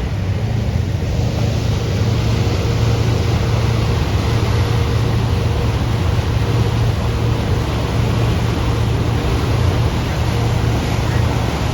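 Motorboat engine running steadily: a low hum under a constant rushing noise.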